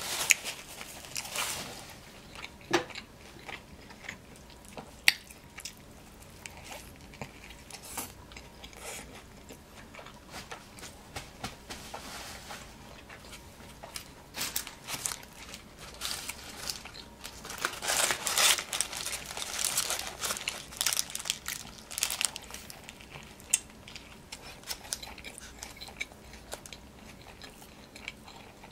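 Close-up chewing and biting of a cheeseburger, wet mouth clicks and crunches, with the paper wrapper and napkin crinkling now and then. The crackling grows busier and louder a little past halfway.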